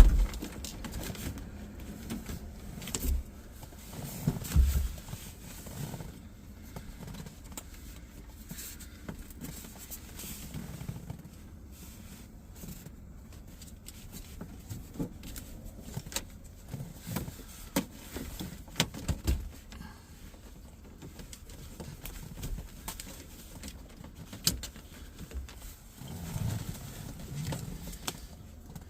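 Scattered clicks, taps and knocks of hands working on wiring and parts under a van's dashboard, with two louder thumps in the first five seconds.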